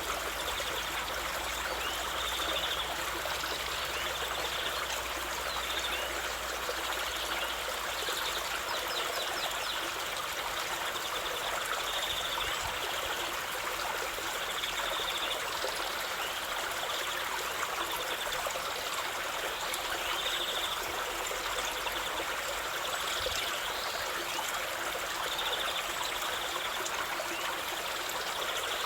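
Stream of water flowing steadily, a continuous rushing and trickling, with short high chirps every second or two.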